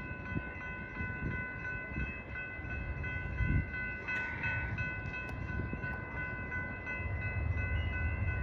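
Amtrak Southwest Chief passenger train approaching the station, its low rumble growing louder about seven seconds in. A steady high-pitched ringing runs through it.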